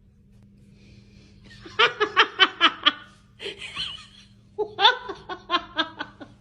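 Laughter in two bouts of quick, rhythmic "ha-ha" pulses, about five or six a second, the first starting about two seconds in and the second about four and a half seconds in. A faint steady hum runs underneath.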